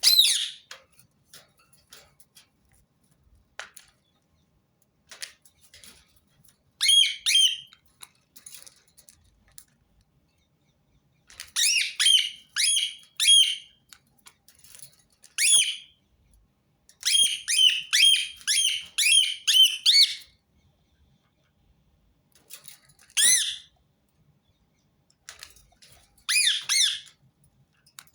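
Rose-ringed parakeet giving harsh, high-pitched squawking calls: single calls and quick runs of four to six, with pauses of a few seconds between.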